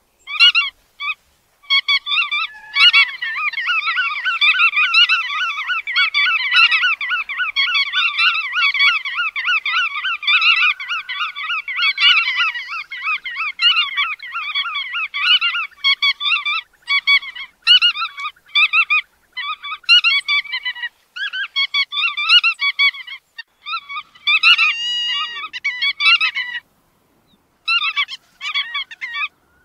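Godwit calls: fast, nasal, repeated notes run together into a long chattering stream for the first half, then break into shorter bursts with brief pauses between them.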